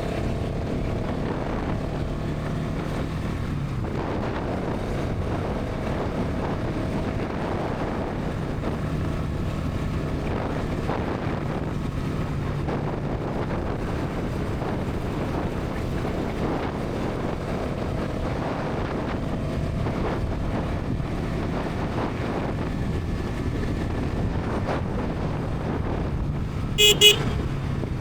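Bajaj Pulsar NS 200's single-cylinder engine and exhaust running at a steady highway cruise, with wind and road noise. A horn beeps twice briefly near the end.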